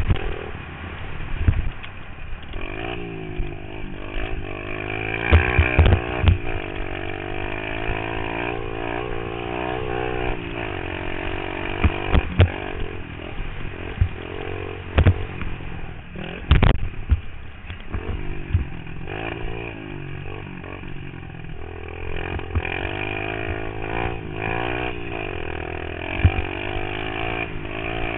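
Pit bike engine revving up and falling back again and again as it is ridden around a dirt track, with sharp knocks scattered through.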